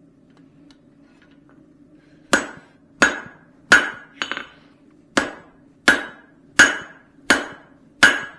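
Hand hammer striking hot steel on an anvil, drawing down the peen of a forged cross peen hammer head: about nine ringing blows, a little over one a second, starting about two seconds in.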